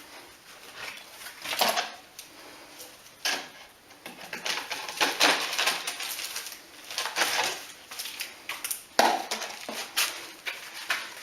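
Metal tools scraping and clinking against brick and rubble in irregular short bursts, during hand work on a hole through a masonry wall.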